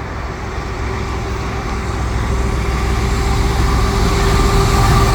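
CPKC double-stack freight train approaching, led by GE ET44AC diesel locomotives: a deep engine rumble with a steady low tone that grows steadily louder, with a higher whine coming in partway through.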